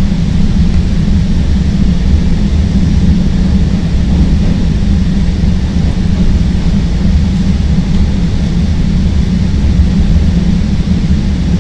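CTA Green Line rapid-transit train running along the elevated track, heard from inside the car: a loud, steady, low rumble of wheels on rail and running gear.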